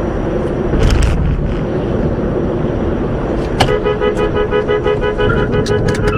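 Traffic and car noise heard through a dashcam, with a brief knock about a second in. A bit over halfway through, a car horn starts sounding and keeps going, with a few sharp clicks near the end.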